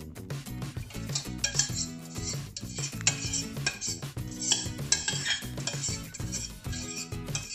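A spoon scraping and clinking against a metal saucepan as thick tomato sauce is scraped out and spread, in repeated short strokes, over steady background music.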